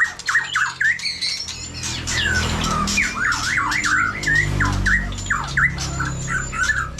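White-rumped shama singing: a fast, continuous run of varied whistled notes sweeping up and down, mixed with short clicks.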